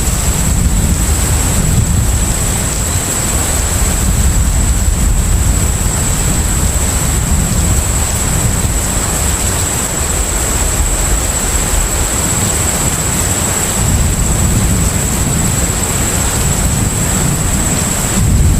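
Container ship at sea: a steady, deep engine rumble under a continuous wash of wind and sea noise, with a thin steady high tone on top.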